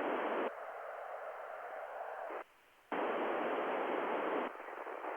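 FM radio receiver hiss through the ICOM IC-9700's speaker as the squelch opens and closes on the ISS repeater downlink: a loud burst of static, a weaker stretch, a brief cut-out, loud static again, then a weaker stretch that cuts off suddenly near the end.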